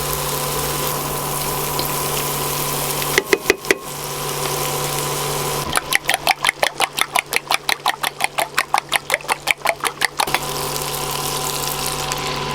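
Eggs being whisked with a fork in a bowl: a few quick clinks about three seconds in, then from about six seconds a fast, even run of ringing clinks, about five a second, for some four seconds. Under it runs a steady hum with a constant drone, like a kitchen extractor fan.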